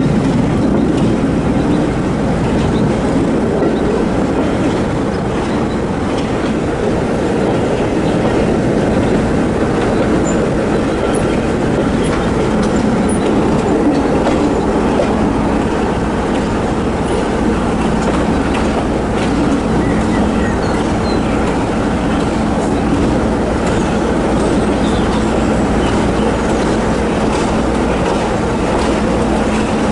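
Diesel-hauled heritage train running at speed, heard from an open carriage window: steady wind rush, wheels clattering over the rails, and a steady engine drone underneath.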